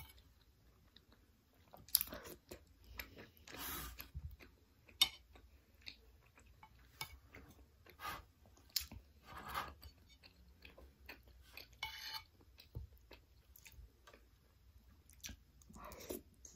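Close-miked wet chewing and mouth smacks of a person eating soft glutinous rice and durian in coconut-milk kolak, with scattered sharp clicks between bites.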